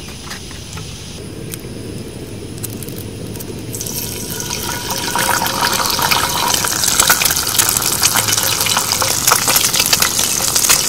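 Hot oil in a cast iron skillet sizzling and crackling as quail eggs are cracked into it and fry. The sizzle starts about four seconds in and grows louder.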